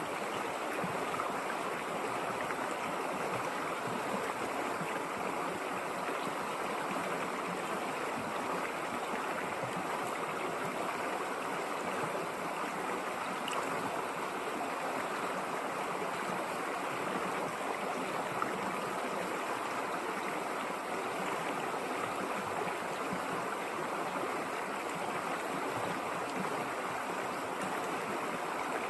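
A river running over rocks: a steady rush and babble of flowing water.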